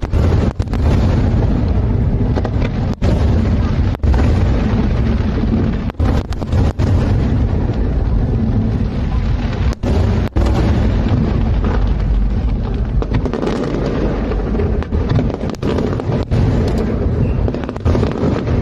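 Aerial fireworks going off in a dense, continuous barrage of bursts and deep booms.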